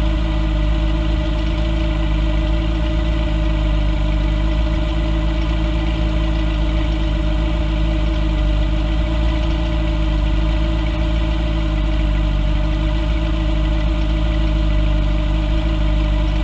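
Engine idling steadily at an even, unchanging pitch with a strong low hum.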